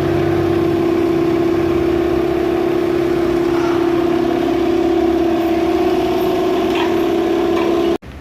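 Toyota Land Cruiser 1GR V6 engine idling steadily, with a strong even hum, run to check the freshly welded exhaust for a leak. The sound cuts off suddenly near the end.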